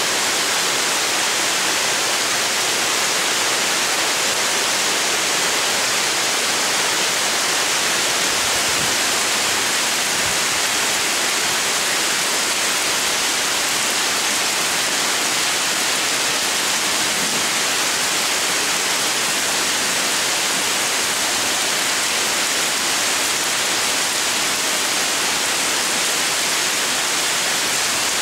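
Heavy rain pouring down: a loud, steady hiss of rain falling on leaves and wet pavement.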